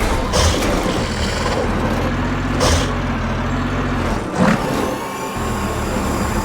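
Heavy dump truck's engine running with a steady low drone, broken by three sharp knocks at about half a second, two and a half and four and a half seconds in. The engine drops out briefly just after the last knock, then comes back.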